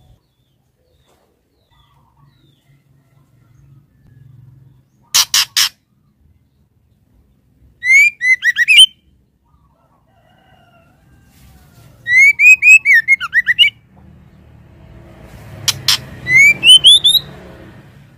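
Female white-rumped shama calling: three short phrases of quick, sharply rising whistled notes. Bursts of sharp clicks come before the first phrase and the last.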